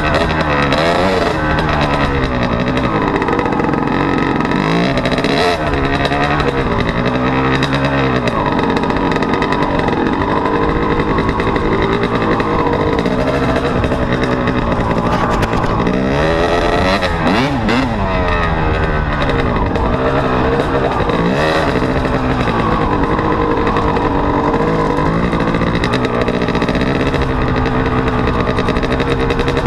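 Dirt bike engine running under a rider, its pitch rising and falling again and again as the throttle is opened and closed through the gears, with sharp revs every few seconds.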